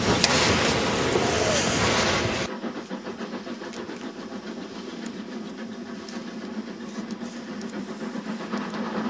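Harz narrow-gauge steam train running: loud, even steam-and-rumble noise, then an abrupt change about two and a half seconds in to a quieter, thinner rolling sound with faint ticks.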